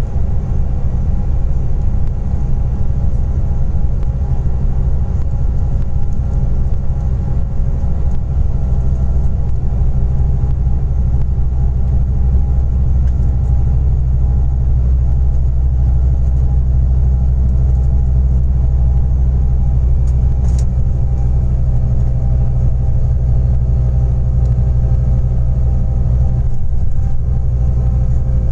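Scania Interlink coach's compressed-natural-gas engine running steadily: a constant low rumble with a steady hum above it.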